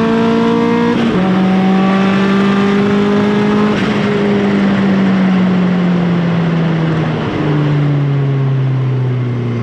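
Turbocharged 1.8 20-valve four-cylinder engine of a Mk2 Golf, its note sinking slowly with a few sudden steps down, as the car comes off the throttle and slows after a drag run.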